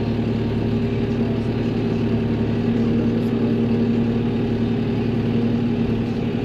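John Deere tractor engine running at a steady drone, heard from inside the cab.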